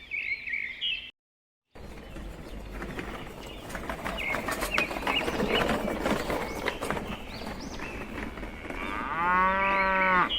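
A cow moos once near the end, one long call over a steady background hiss with birds chirping.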